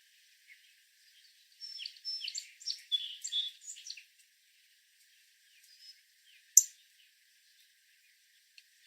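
Northern cardinal giving quick chirps: a burst of short high notes lasting about two seconds, starting about one and a half seconds in. A single sharp click about two-thirds of the way through is the loudest sound.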